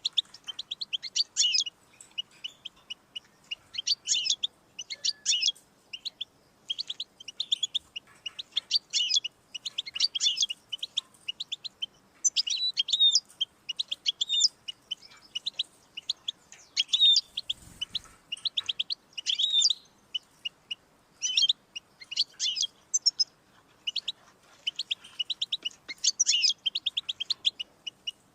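European goldfinch singing: bursts of rapid, high chattering notes, one phrase after another with brief gaps between them.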